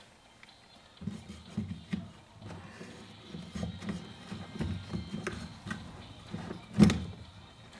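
Irregular hollow knocks and taps of chainsaw parts and tools being handled and fitted during reassembly, with one louder knock near the end.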